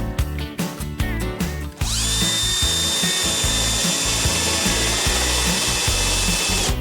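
Handheld power tool run in short bursts, then held running steadily with a high whine for about five seconds before letting off near the end. Background music plays underneath.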